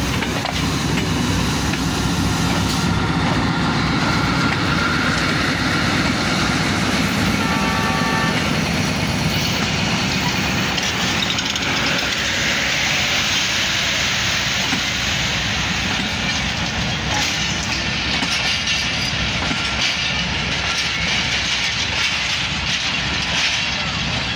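Diesel-hauled passenger train pulling in: the locomotive passes close at the start, then a long line of coaches rolls slowly past, a steady rumble with wheels clattering over the rail joints.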